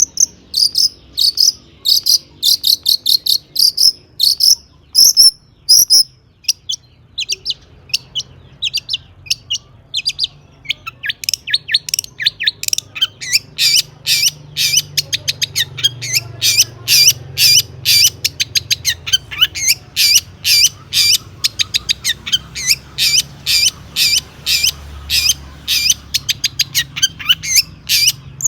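Long-tailed shrike (cendet) singing loudly in full song: a buzzy, chattering run of high notes for the first few seconds, then from about ten seconds in a long series of sharp repeated notes, about two a second and speeding up to about three a second near the end.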